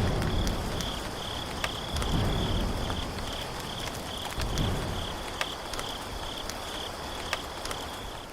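Insect, likely a cricket, chirping in a steady rhythm of about two or three high-pitched chirps a second, with a few low rumbles and scattered clicks underneath.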